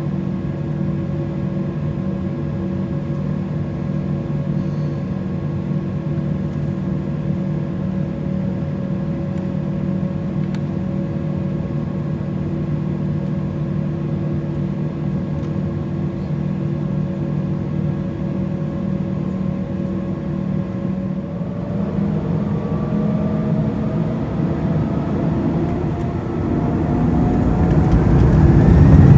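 Embraer E190's General Electric CF34 turbofans heard from inside the cabin, running steadily at idle with a hum of several steady tones. About two-thirds of the way in the engines' whine starts to rise in pitch, and the noise grows louder near the end as they spool up for takeoff.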